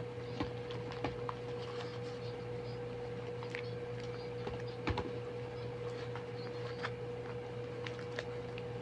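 Faint scattered clicks and rustles of paper and foam being handled, over a steady hum.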